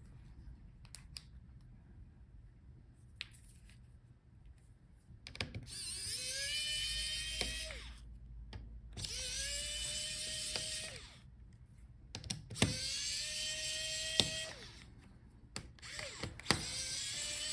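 Small electric screwdriver backing out laptop screws in four short runs of about two seconds each; each time the motor whine rises as it spins up, then holds steady until it stops. Faint clicks come before the first run.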